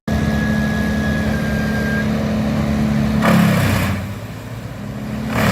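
Large wood chipper running steadily, with two short rushes of noise about three seconds in and near the end as wood goes through it.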